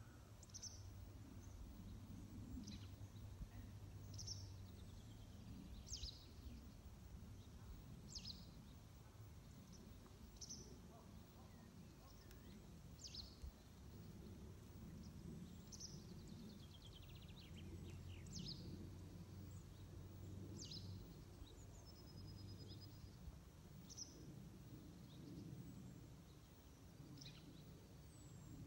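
Faint ambience: a bird calling short, high, falling chirps about every two seconds, with an occasional trill, over a low steady rumble.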